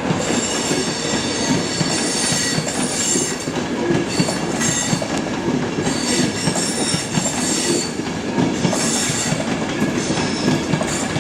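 InterCity 225 electric passenger train rolling past at close range, a steady rumble of wheels on rail with high, thin wheel squeals coming and going throughout.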